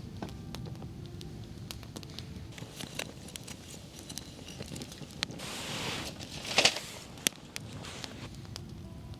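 Wood campfire crackling with scattered small pops. A little after five seconds comes a brief hiss, then a few louder sharp cracks.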